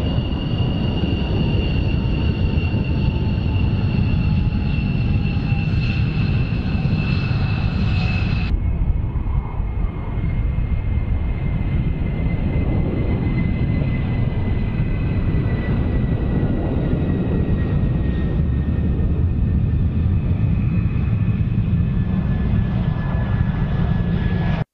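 Fighter jet engine running: a steady rush with a high whine that slowly falls in pitch. It changes abruptly about eight seconds in to similar jet noise with a lower whine.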